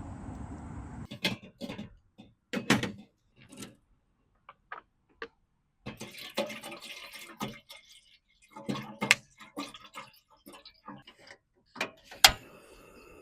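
A steady noise that cuts off about a second in, then irregular clicks and knocks of objects being handled, with a spell of liquid-like noise around the middle.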